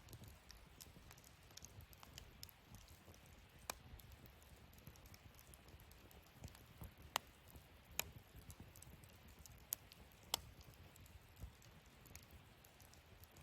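Wood fire burning quietly in a fire-pit stand, giving a handful of sharp, scattered crackles and pops over a faint, steady low rumble.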